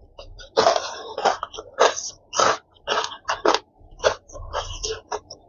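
A person chewing crispy fried chicken close to the microphone, a quick, irregular run of short crunchy mouth sounds.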